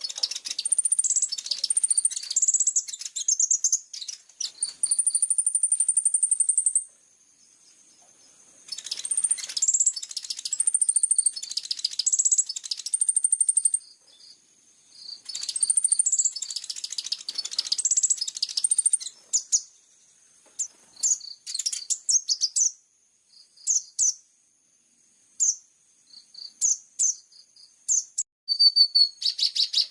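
Small songbird singing high-pitched chirps, trills and whistled notes in long dense phrases, then scattered single chirps with pauses between them. A fast, even trill begins near the end.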